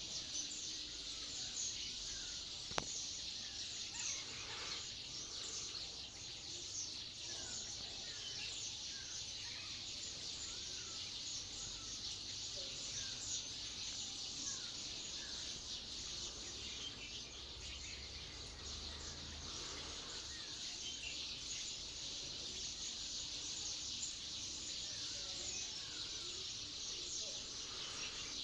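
Birds calling outdoors: short, falling chirps repeating over a dense, steady high-pitched chirring chorus, with one sharp click about three seconds in.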